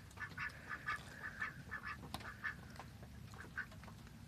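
Domestic ducks quacking softly: a quick run of short quacks, several a second, that thins out to a few scattered ones after about two seconds.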